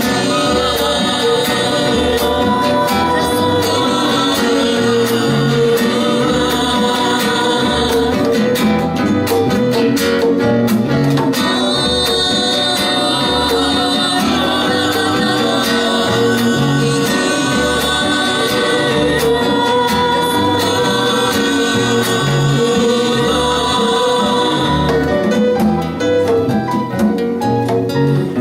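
A live band playing a song with singing over a steady, evenly pulsing bass beat.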